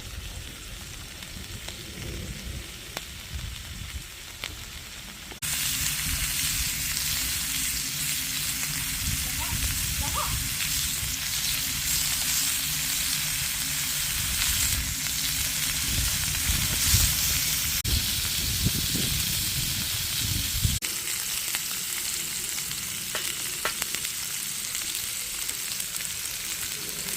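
Frozen sliced pork belly sizzling on a grill over a wood fire. The sizzle gets suddenly much louder about five seconds in and then keeps on steadily.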